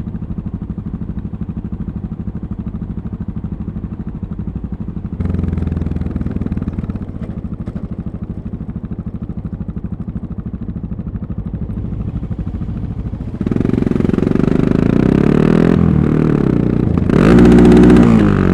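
Yamaha MT-03 660's single-cylinder engine ticking over at low revs with an even pulse. About two-thirds of the way in it opens up and gets louder, then revs hardest near the end, its pitch rising.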